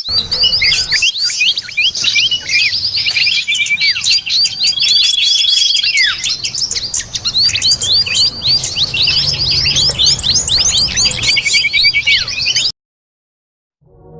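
A dense chorus of small birds chirping and calling, many short quick notes sweeping up and down over one another, with an occasional longer whistled note. It cuts off suddenly near the end.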